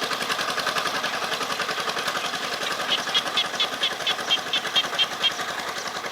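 A small tractor engine running with a fast, even chug. About halfway in, a run of about ten sharp ticks, roughly five a second, sounds over it for a couple of seconds.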